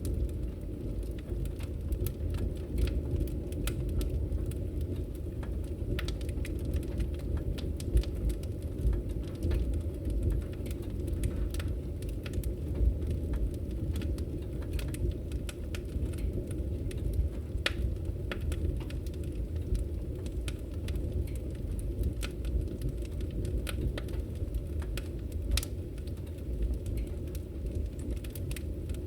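Wood fire burning in a fireplace, crackling: frequent irregular sharp pops and snaps over a steady low rumble of the flames.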